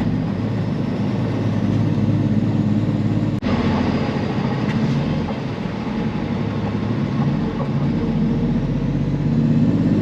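Peterbilt semi truck's diesel engine running steadily under load while driving, with road noise. There is one very brief dropout about three and a half seconds in.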